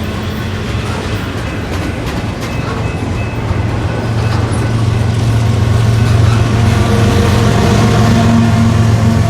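Freight intermodal train running past with a steady low rumble that grows louder midway.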